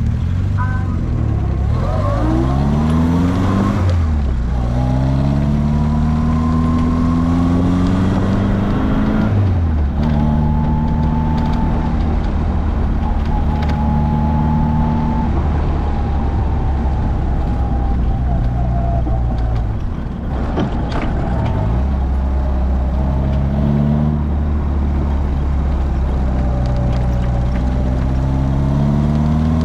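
Morgan sports car's engine under hard acceleration on a sprint circuit. Its pitch climbs and drops back at gear changes about 4 and 9 seconds in, then holds fairly steady. It lifts off briefly around 20 seconds in, then climbs again through the gears near the end.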